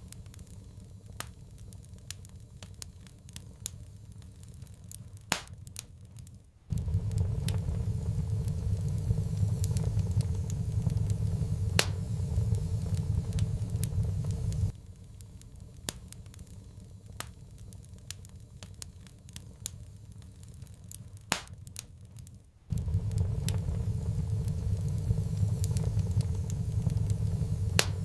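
Wood fire crackling, with scattered sharp pops. A low steady rumble cuts in abruptly about a quarter of the way in, stops suddenly around the middle, and cuts in again about three quarters through.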